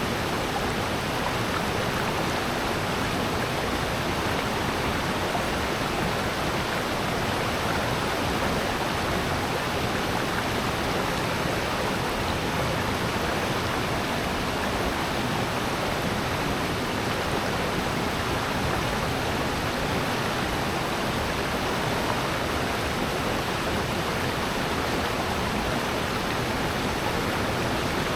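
Water flowing steadily in a mountain valley stream: a constant, even hiss of running water that does not change.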